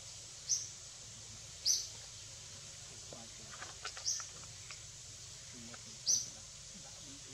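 A bird chirping: four single short, high chirps a second or two apart, with a few faint ticks in the middle, over a steady low outdoor hum.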